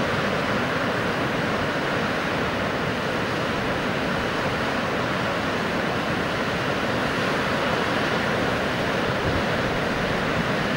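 Fast-flowing river water rushing steadily, a constant hiss of whitewater.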